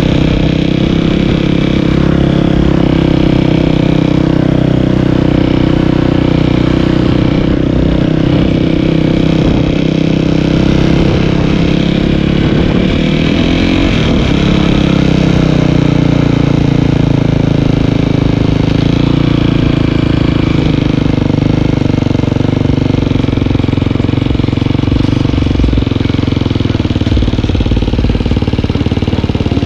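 Dirt bike engine running while riding, steady and loud, its pitch shifting briefly about halfway through.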